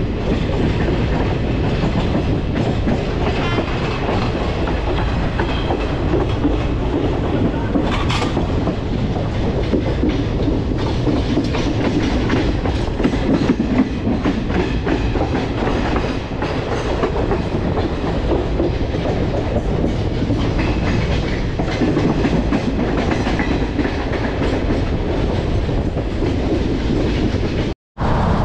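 Indian express passenger train running on the rails: a steady loud rumble with the wheels clattering continuously over the track. There is a brief sharper sound about eight seconds in, and the sound cuts out for a moment near the end.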